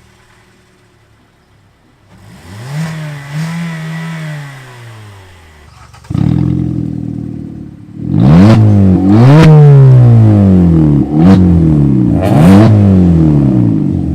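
Car engine with the muffler removed (muffler delete), revved: one slower rev about three seconds in, then it gets much louder and is blipped in several quick, sharp revs.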